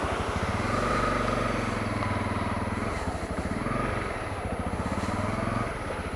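Honda CRF250L's single-cylinder four-stroke engine running at low riding speed, its pitch rising and easing a couple of times.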